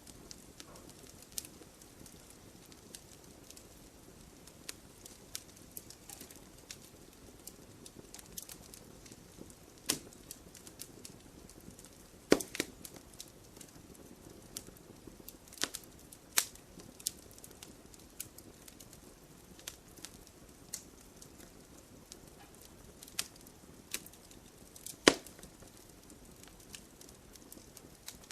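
Wood fire burning, crackling with irregular sharp pops over a low steady hiss; two pops, about 12 and 25 seconds in, stand out as the loudest.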